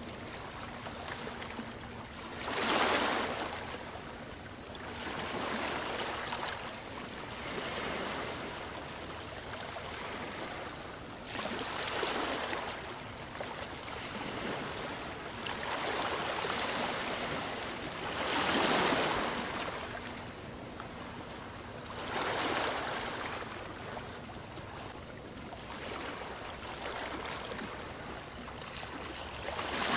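Ocean waves breaking and washing in, the surf swelling and fading every three to four seconds.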